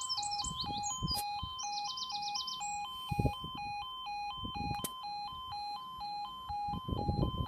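Level crossing warning alarm sounding: a two-tone yodel alternating steadily between a lower and a higher pitch about twice a second.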